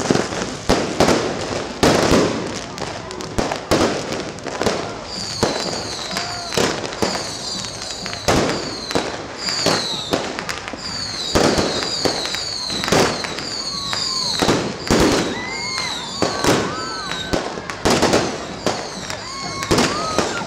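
Fireworks going off in rapid succession: many sharp bangs, with short falling whistles from about five seconds in and a few rising whistles near the end.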